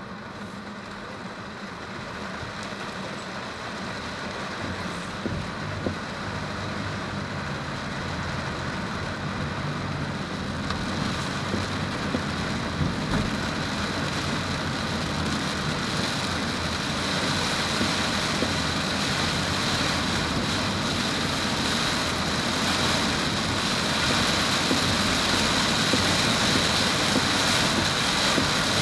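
Engine-driven vehicle travelling: a steady engine hum under a wash of motion noise that slowly grows louder, with a thin high steady tone in the mix.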